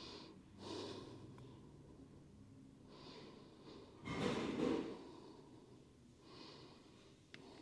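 Slow, deep breaths through the nose, several in a row, with the loudest a long exhale about four seconds in. A small click near the end.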